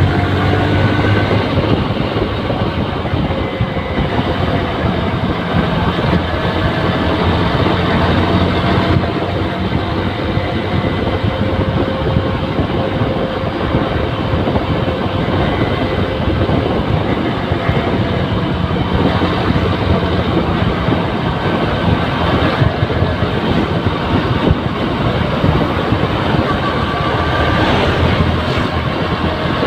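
Yamaha New Megapro single-cylinder motorcycle engine running while riding, its note shifting slowly with speed, under a steady rush of wind and road noise.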